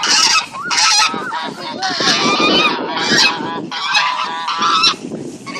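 Several geese honking loudly in overlapping calls, one after another, as they squabble and threaten each other.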